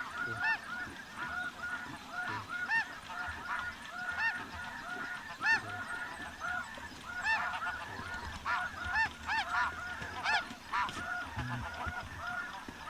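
Snow geese calling in a large flock: many short, high, nasal honks overlapping in a continuous chatter.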